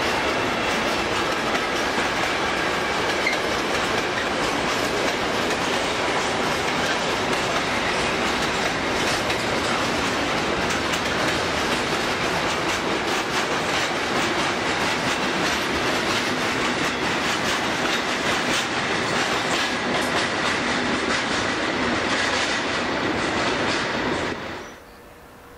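Freight train wagons rolling past close by in a steady rush of wheel and rail noise, with wheels clicking over the rail joints. The sound cuts off shortly before the end.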